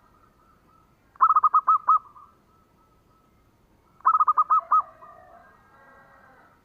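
Zebra dove (perkutut) cooing: two phrases of five or six quick, clipped coos, about a second in and again about four seconds in, followed by fainter warbling.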